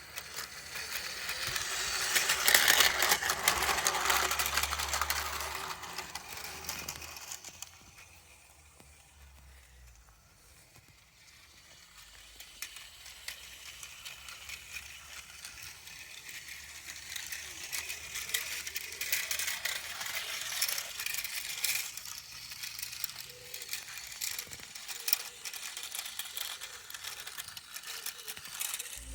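Battery-powered toy train running on plastic track, a fast patter of clicking and rattling from the wheels and motor. It is loudest a few seconds in, fades away around the middle, then slowly grows louder again as the train comes back round.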